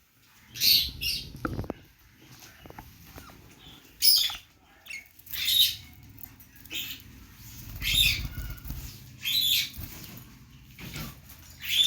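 Budgerigars chirping in short, scratchy bursts, about eight of them, with softer twittering in between.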